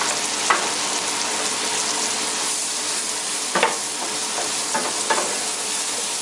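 Mushrooms sizzling in brown butter in a frying pan, stirred so that the utensil clicks and scrapes against the pan a few times.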